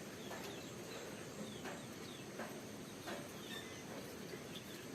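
Faint, short, high bird chirps, each sliding down in pitch, repeated irregularly about once or twice a second over quiet rural background noise.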